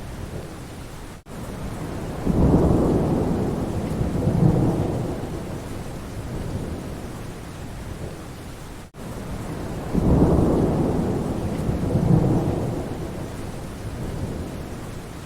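Steady rain with thunder rumbling twice, each rumble coming on suddenly and fading over several seconds. A brief break in the sound comes shortly before each rumble, and the rain-and-thunder pattern repeats about every eight seconds like a loop.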